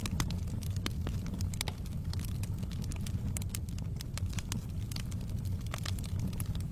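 Wood fire in a fireplace burning with a steady low rumble and frequent irregular crackles and pops.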